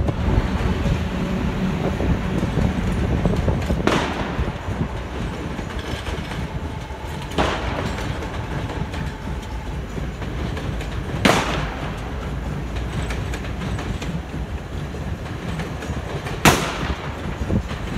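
Train running with a steady rumble and rattle, broken by four sharp cracks at uneven gaps, the last one near the end the loudest.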